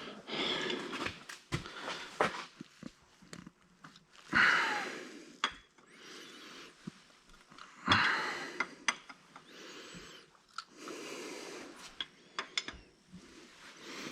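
A man breathing heavily, with a long exhale every three to four seconds, and small sharp clicks in between.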